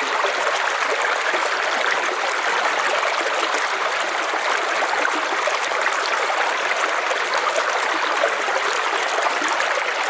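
River water flowing over a streambed: a steady, continuous rush with fine splashing and bubbling.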